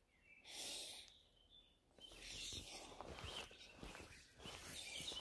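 Faint birds chirping over quiet outdoor background noise, with a short rush of noise about half a second in and a rustling haze with small clicks from about two seconds on.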